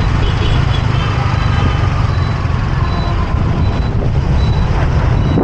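Riding a motorbike through city traffic: a steady, loud low rumble of engine and road noise, with the surrounding traffic heard through it.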